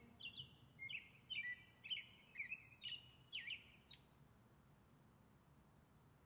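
A songbird singing a run of short, downward-slurred whistled notes, about two a second, stopping about four seconds in.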